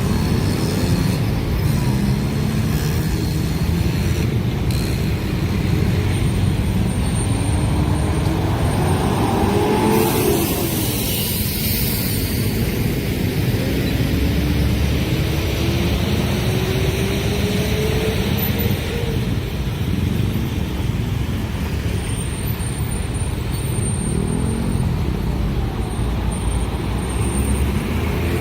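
Continuous heavy rumble of vehicles at a railway level crossing, with two engine tones rising in pitch as something speeds up. Faint high, thin tones sound near the start and again near the end.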